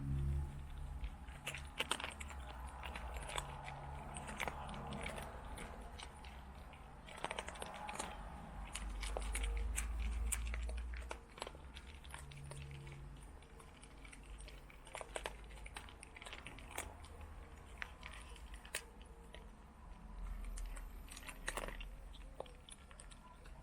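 Cats crunching and chewing dry food with their heads inside a bag: many short, irregular crunches, with the bag crinkling now and then.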